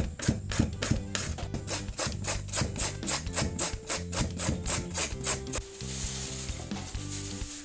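Sweet potato being grated, rhythmic rasping strokes about four or five a second that give way to a softer rasp near the end, over background music.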